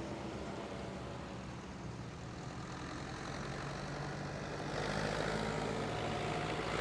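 Old farm tractor engine running steadily at low speed, getting louder about five seconds in as it comes closer.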